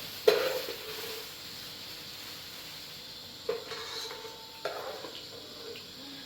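A sharp knock with a short ring, then two more clattering knocks with a brief ring about three and a half and four and a half seconds in, over a steady hiss.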